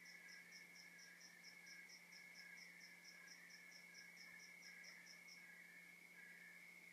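Faint night chorus of crickets and other insects: a steady high trill with slower repeated chirps beneath it, and a higher, faster chirping at about five a second that stops about five seconds in.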